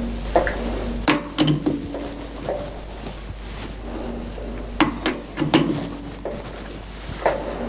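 A series of irregular sharp knocks and clatters, like objects being handled or set down, over a faint steady hum.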